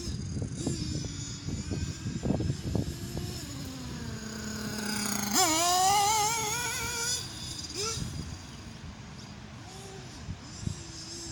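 Nitro RC buggy engine (Alpha Racing .28) running at a distance. Its pitch drops to a low steady note, then jumps up sharply about five seconds in as it accelerates, wavering on the throttle, and fades away after about seven seconds.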